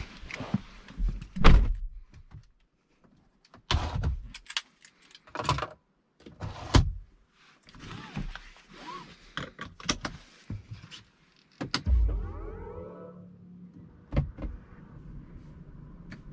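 Car-interior handling noises: a string of thunks and clicks, then a heavy thud about twelve seconds in, followed by a steady low hum.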